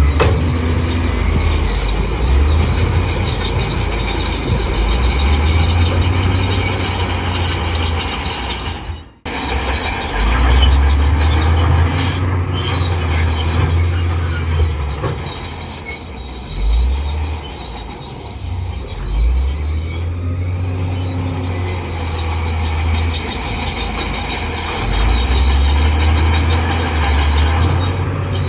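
Crawler bulldozer working: deep diesel rumble that swells and eases every few seconds under load, with a steady high metallic squeal from the steel tracks. The sound drops out for an instant about nine seconds in.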